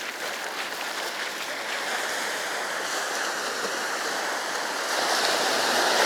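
Sea surf: waves washing up the beach in a steady rush, swelling louder about five seconds in as a wave breaks.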